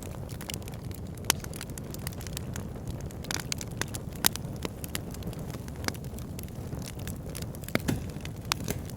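Wood fire in a log burner crackling: a steady low rumble of flames with irregular sharp pops and snaps from the burning logs, a few louder ones among them.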